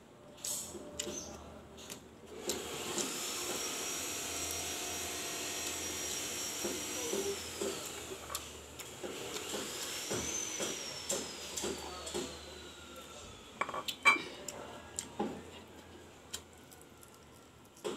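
A construction power tool runs twice: a steady high whine from about two and a half seconds in that drops away near seven seconds, then a second whine about ten seconds in that slowly winds down over about four seconds. Clinks of dishes and cutlery come throughout, with a sharp knock about fourteen seconds in.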